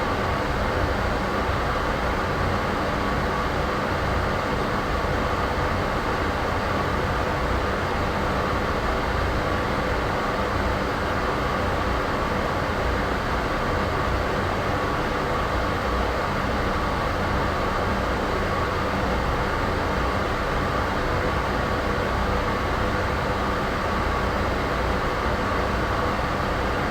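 Steady ambient white-noise sound effect: an even, unchanging rumble and hiss, heaviest in the low and middle range, with a faint steady hum running through it.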